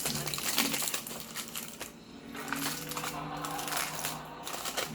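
Close crackling and crunching as a fish burrito is handled and eaten: wrapper crinkling and mouth noises in quick irregular clicks.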